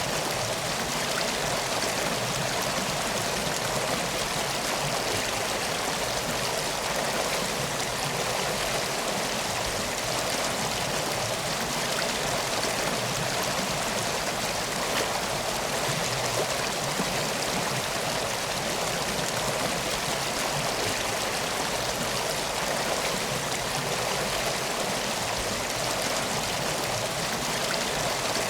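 A river flowing steadily, a continuous rush of water.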